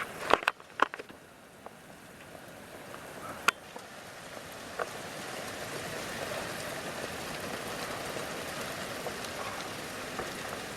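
Steady rain, building up over the first few seconds and then holding even, with a few sharp ticks near the start and one more about three and a half seconds in.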